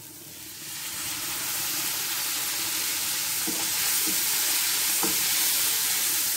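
Onion-tomato masala frying in oil in a nonstick pan, sizzling and hissing hard as a little water is added to it. The sizzle starts about half a second in and builds to a steady level. A wooden spoon stirs it, with a couple of light knocks against the pan.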